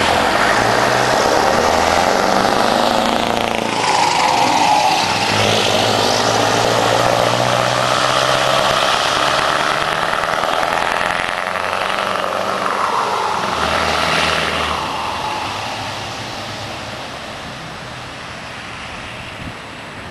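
Heavy truck engines and road noise. The sound swells twice, about four and about thirteen seconds in, as vehicles go past, then fades toward the end.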